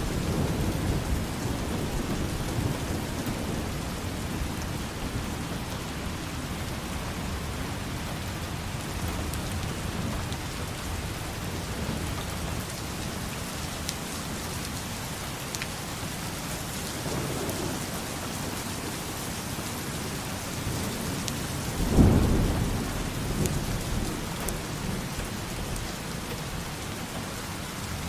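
Steady heavy rain falling, with rolling thunder. A low rumble near the start fades, and about two-thirds of the way through a sudden loud thunderclap breaks out and rumbles away.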